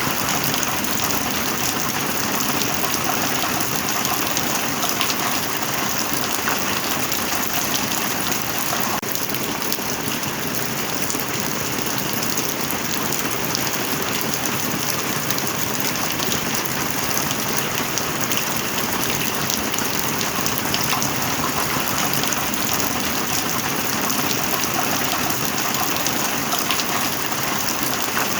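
Heavy rain falling steadily: a dense, even hiss of drops, unchanging throughout.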